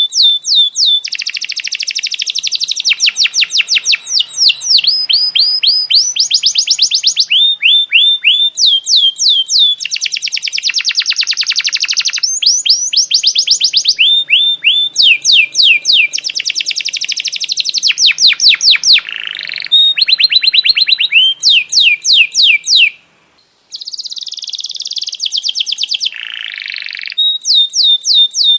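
Songbird song: long runs of rapid, sharp down-slurred whistled notes alternating with dense, fast chattering trills, loud and almost continuous. There is one brief break about three-quarters of the way through.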